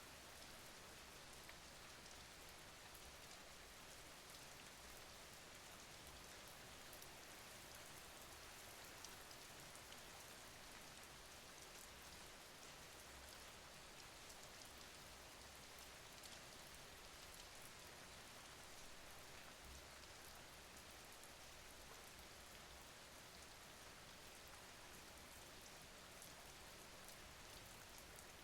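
Faint, steady rain falling, a continuous hiss with fine patter of drops.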